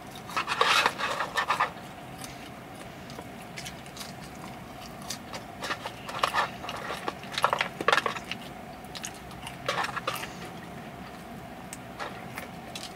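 Close-up eating of yam fries: biting and chewing in several short bursts of crisp, wet mouth sounds, with a faint steady hum underneath.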